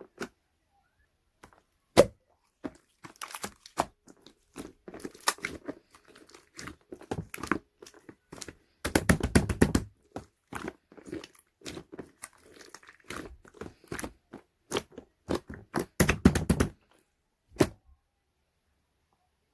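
Irregular close clicks, knocks and crunching sounds, with a dense rattling stretch about nine seconds in and another about sixteen seconds in.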